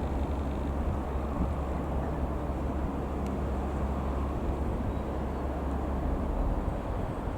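Piper PA-28-180 Cherokee's four-cylinder Lycoming piston engine running steadily, a continuous low drone and rumble.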